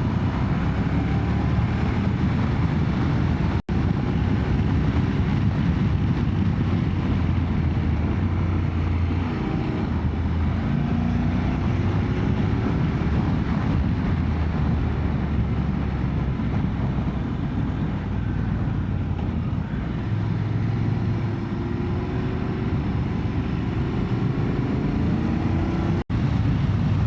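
Motorcycle engine running on the move with wind and road noise, its pitch rising and falling as the revs change through the bends. The sound cuts out for an instant twice, near the start and near the end.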